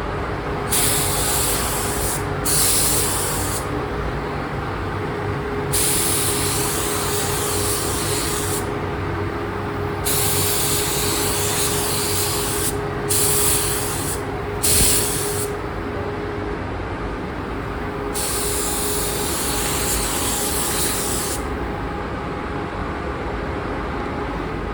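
Clear coat being sprayed onto painted motorcycle fairing parts: about seven hissing spray passes of one to three seconds each. Underneath runs a steady low hum with a faint steady tone.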